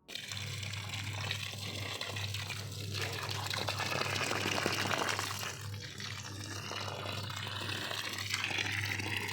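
Water gushing and splashing steadily, with a low steady hum underneath.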